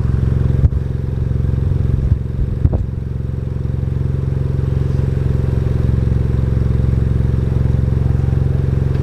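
Ford Fiesta Zetec S EcoBoost engine idling steadily through a Cobra cat-back performance exhaust, giving a deep, even exhaust note. A few short knocks and clatters come about a second in and again a couple of seconds in.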